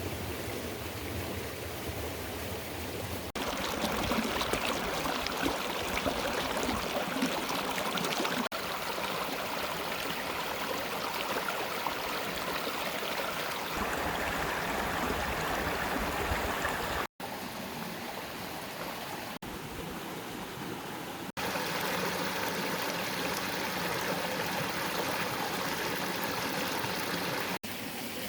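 Water of a stream running steadily over rocks, in several short takes that cut abruptly from one to the next.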